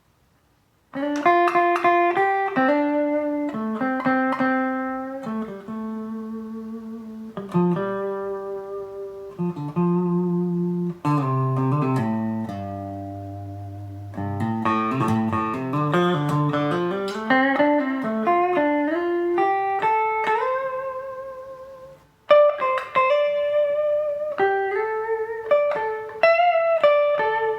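Riggio Tango electric guitar played through a Quilter amplifier with no effects pedals: a slow melodic line of single notes and chords, with vibrato on some held notes. It starts about a second in and pauses briefly near the end.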